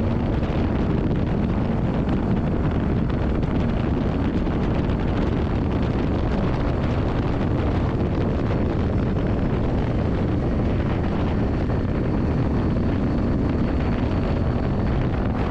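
Yamaha Drag Star 400's air-cooled V-twin engine running steadily, under heavy wind noise on the microphone.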